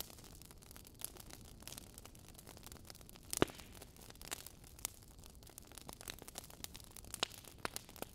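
Wood fire crackling in a fireplace: irregular sharp pops and snaps over a low steady hiss, with one louder pop about three and a half seconds in.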